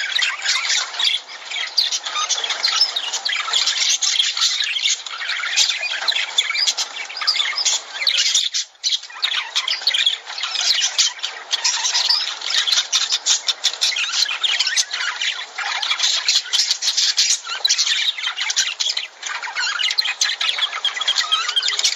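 A flock of lovebirds chattering with dense, continuous shrill squawks and chirps, broken by a brief lull a little before the middle.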